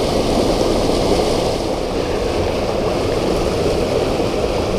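Creek water rushing steadily, an even wash with no change.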